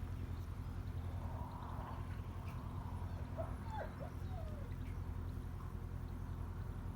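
Canal boat's engine running steadily with a low, even chugging, with a few short gliding calls near the middle.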